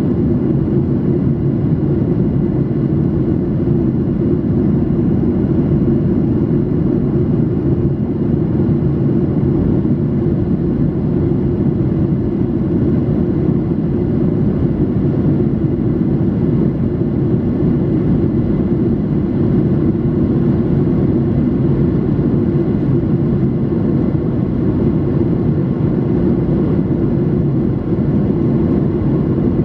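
Steady cabin noise inside a Boeing 737-800 in flight: the even drone of its CFM56 jet engines and the airflow over the fuselage, with faint high, steady whining tones above it.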